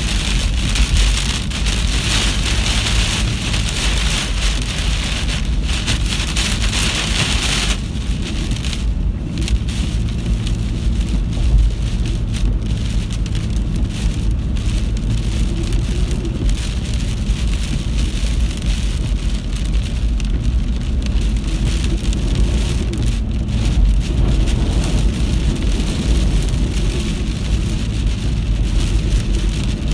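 Heavy storm rain with a steady low rumble underneath. The hiss of the rain is strongest for the first several seconds, then drops off abruptly about eight seconds in.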